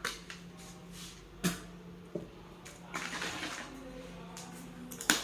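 Eating sounds: a few sharp clicks of a utensil against a plate, the loudest near the end, with a short scraping stretch and chewing in between, over a steady low hum.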